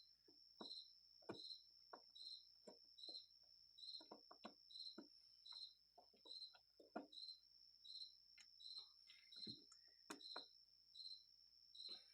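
Faint cricket chirping steadily, about three chirps every two seconds, with scattered soft clicks and taps of small carburetor parts being handled.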